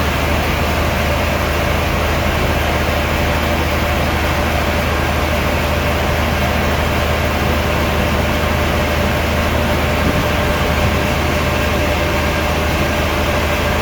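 Sawmill machinery running steadily: a continuous low drone with a faint steady whine above it.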